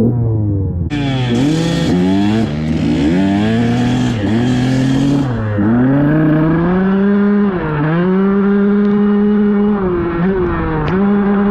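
Dirt bike engine under way: the pitch climbs and drops again and again over the first few seconds as the throttle opens and gears change, with a hiss on top. It then settles into a steady run at an even pitch, with a brief dip near the end.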